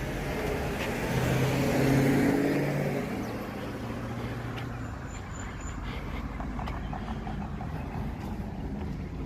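A motor vehicle driving past: its engine hum swells to a peak about two seconds in, then fades into a steady low traffic rumble.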